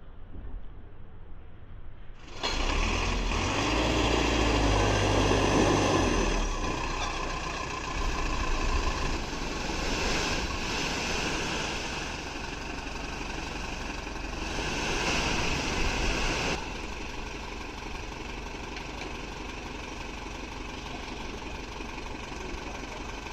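Heavy diesel engine running steadily, with its level swelling and easing several times and settling lower about three-quarters of the way through. It starts abruptly about two seconds in after a quieter opening.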